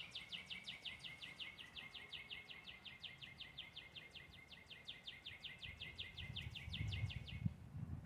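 A songbird singing a long, even trill of short notes, each falling in pitch, about six a second, which stops shortly before the end. A low rumble of passing traffic builds under it over the last couple of seconds.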